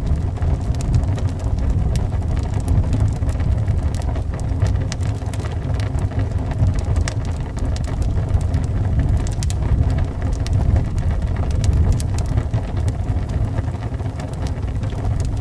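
Wood fire in a fireplace crackling with many sharp, irregular pops, over the steady low rumble of wind howling.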